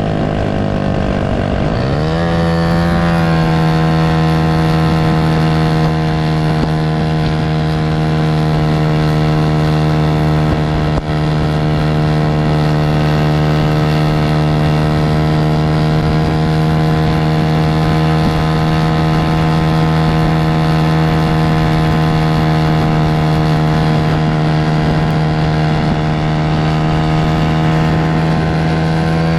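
Mini bike's small engine running steadily under load while it tows a second mini bike on a strap. The engine note drops and climbs back in the first few seconds, then holds one steady pitch.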